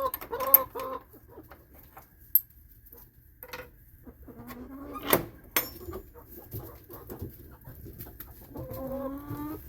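Backyard hens clucking and calling in drawn-out squawks, with a few sharp knocks or clicks in between.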